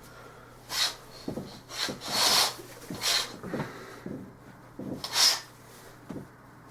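Handling noise: about eight short rubbing and rustling sounds, irregularly spaced.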